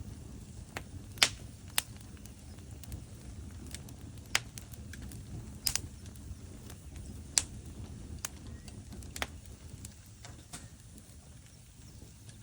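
Logs burning in a fireplace: irregular sharp crackles and pops, about half a dozen of them loud, over a low steady rumble of the fire.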